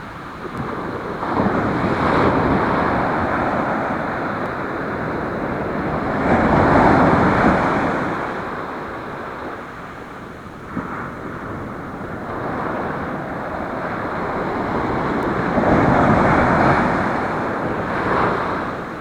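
Ocean surf breaking on the shore, swelling into three louder surges and falling back between them, with wind noise on the microphone.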